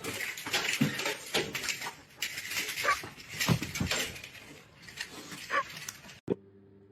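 A dog giving a few short whines and yelps over scuffling and knocking noises, cut off suddenly about six seconds in.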